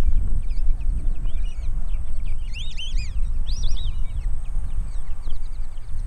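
Many short high bird whistles and chirps, with a louder cluster of arched whistled calls in the middle, over a steady low rumble.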